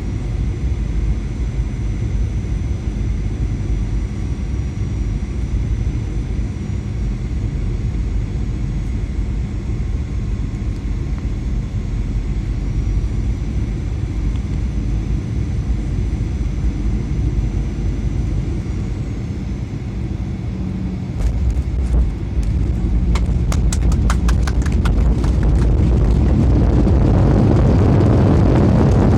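Airbus A320 heard from inside the cabin: a steady engine and airflow rumble with thin whining fan tones on the approach. A bit past twenty seconds a cluster of knocks and rattles as the wheels touch the runway, then a loud rising roar of the engines, typical of reverse thrust after touchdown.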